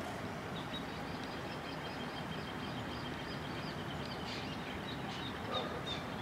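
A bird calling, a fast run of short, high chirps, several a second, followed by a few sharper chirps near the end, over a steady low background rumble.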